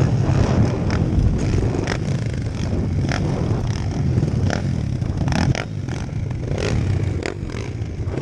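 Pit bike engines running steadily, with scattered clicks and knocks over the engine noise.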